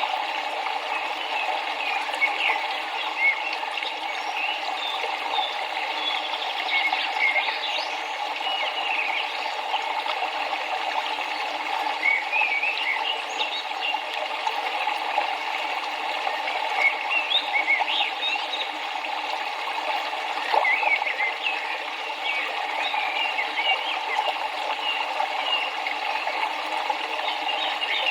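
Running river water making a steady rush, with small birds chirping in short, frequent calls throughout.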